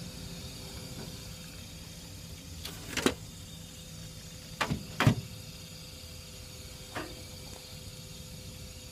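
Steady electrical hum and hiss with a thin whine, coming from an electric fan while it is plugged in; the uploader finds it stays even with the blades stopped by hand and stops once the fan is unplugged. A few sharp knocks cut through it, about three seconds in, twice around five seconds, and once more near seven seconds.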